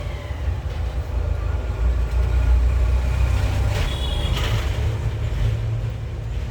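Low rumble of road traffic, like a heavy vehicle passing, swelling about two seconds in and easing off toward the end.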